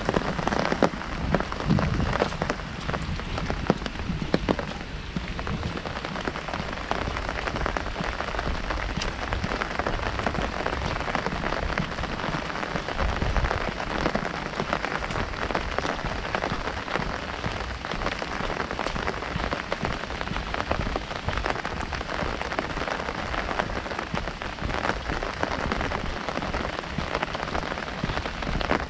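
Heavy rain falling steadily on an umbrella overhead, a dense continuous patter of drops striking the canopy.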